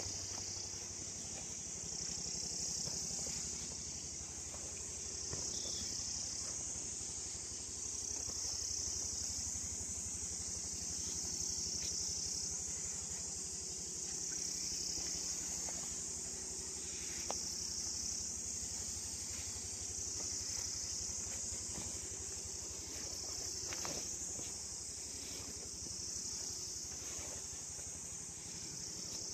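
Steady high-pitched chorus of insects in woodland, swelling and easing in slow waves, with a few faint clicks underneath.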